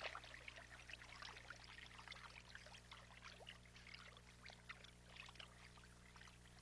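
Faint trickling water, a dense patter of tiny splashes and drips, over a steady low hum.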